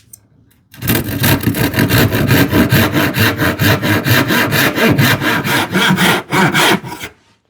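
Handsaw cutting Baltic birch plywood in quick, even back-and-forth strokes. It starts about a second in and stops shortly before the end.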